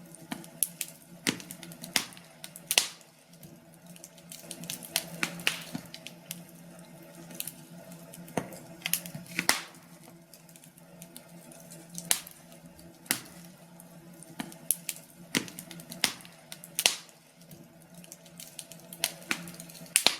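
Wood fire crackling in a fireplace, with irregular sharp pops and snaps over a faint steady low hum.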